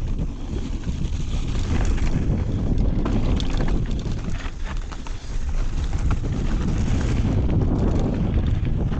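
Wind buffeting a GoPro's microphone on a downhill mountain-bike run, a loud low rumble, with scattered clicks and rattles from the bike going over rough ground.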